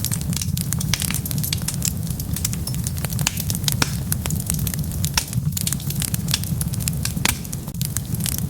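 Wood fire crackling, with many sharp pops coming irregularly over a steady low rumble.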